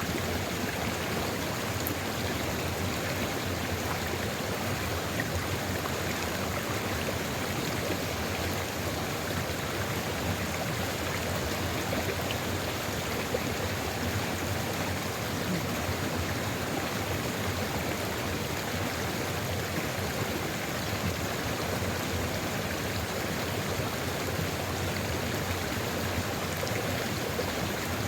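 Sulfur river flowing steadily: an even, unbroken rush of running water with no pauses or changes.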